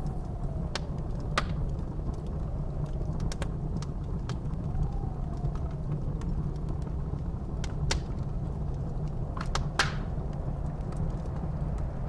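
Wood fire crackling, with sharp pops every second or few seconds and a cluster of them about ten seconds in, over the steady low rumble of blizzard wind. A faint wind whistle rises and falls about five seconds in.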